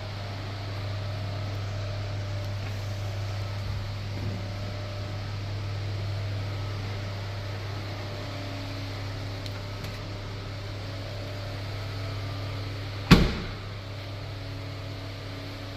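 Steady low electrical hum from the laundromat's machines, with a single loud bang about thirteen seconds in: the door of an Electrolux TD6-24S tumble dryer being slammed shut after loading.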